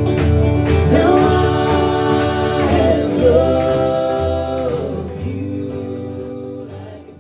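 Vocal harmony singing long held chords over strummed acoustic guitar, closing a song. The strumming stops about a second in, the voices move through a few sustained chords, and the sound fades out near the end.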